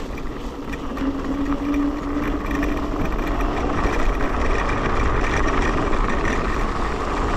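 Electric scooter riding over a rough, muddy track: a steady rumble of tyres and wind on the microphone. A motor whine comes in about half a second in and lasts a couple of seconds.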